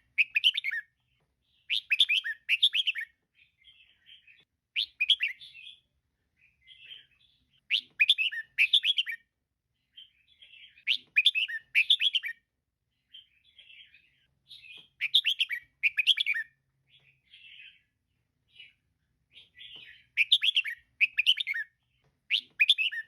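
Female red-whiskered bulbul calling: short bright phrases of several quick chirping notes, repeated about every three seconds, with softer chatter between them.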